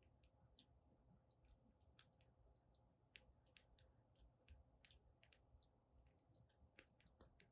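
Wood fire in a fire pit crackling faintly, with irregular small pops and crackles and a few sharper snaps.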